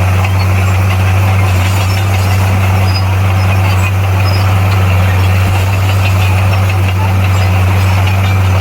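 Bulldozer's diesel engine running at a steady speed: an even, unbroken low hum that does not rise or fall.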